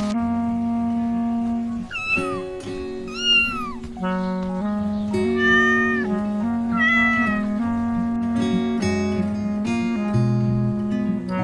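A cat meows four times, the first two calls falling in pitch and the last two more level, over background music of held notes.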